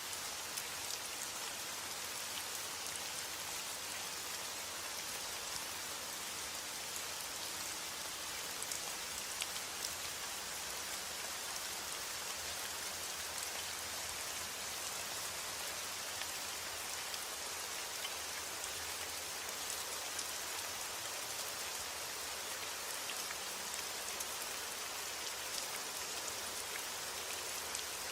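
Steady heavy rain falling on a roof: an even hiss with faint individual drop ticks scattered through it.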